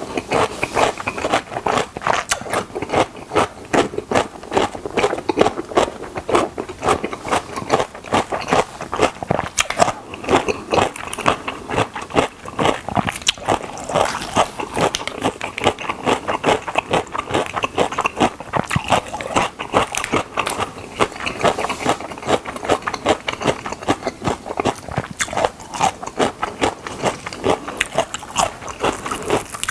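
Close-miked chewing and biting into crunchy fried chicken drumsticks: a continuous run of rapid, irregular crunches and wet chewing.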